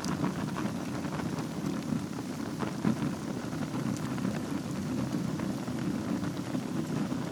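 Wood fire burning in a fireplace over embers: a steady low rush with many small crackles and one sharper pop about three seconds in.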